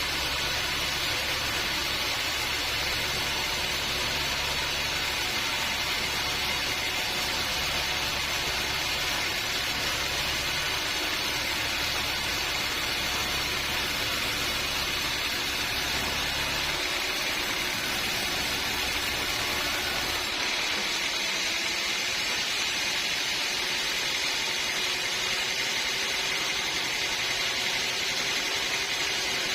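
Sawmill running steadily: a continuous hissing machine noise, with a low hum underneath that drops away about two-thirds of the way through.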